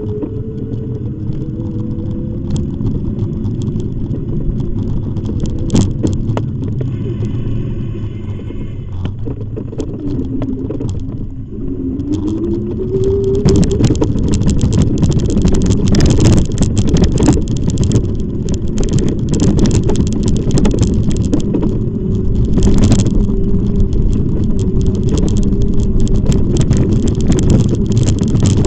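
Riding noise from an e-bike: a motor whine that dips and rises with speed over a steady rumble, with wind buffeting and road noise growing louder about halfway through.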